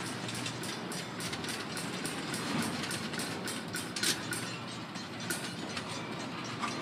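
Cars of a BNSF doublestack container freight train rolling past on the rails: a steady rumble and rattle of wheels and well cars with a run of small clicks, and one sharper clank about four seconds in.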